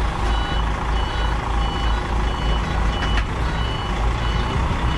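Container truck's reversing alarm beeping at a steady, regular rate over the diesel engine running at low speed.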